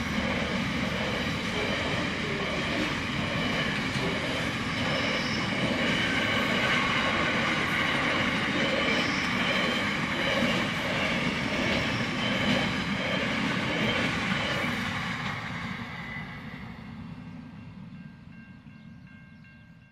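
Freight train wagons rolling past a level crossing, a steady rumble and clatter of wheels on the rails, fading away over the last few seconds as the train moves off.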